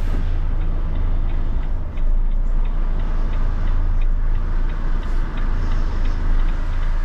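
Semi-truck's diesel engine running at low revs, heard from inside the cab as the truck is eased up to a loading ramp. A regular ticking from the hazard-light flasher runs over the engine.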